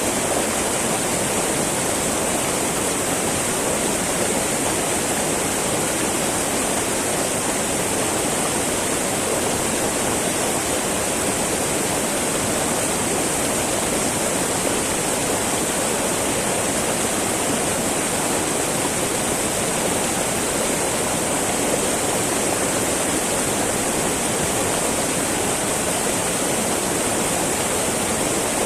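Small mountain river babbling and rushing steadily over rocks, a continuous wash of flowing water with no change.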